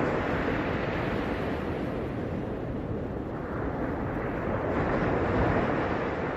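Ocean surf washing onto the beach: a steady rushing of breaking waves that swells a little near the end.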